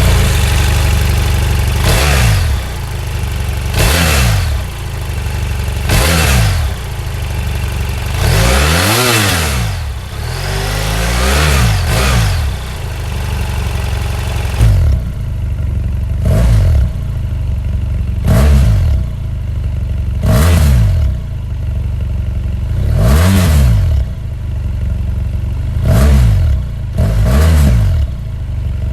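BMW F800GS's parallel-twin engine on its stock exhaust, idling and being blipped in a dozen or so short revs that rise and fall back to idle every couple of seconds, with one longer, higher rev about nine seconds in.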